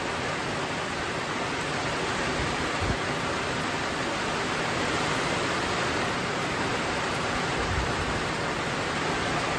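Heavy squall rain pouring down with wind, a steady even hiss from a tropical storm's outer rain band.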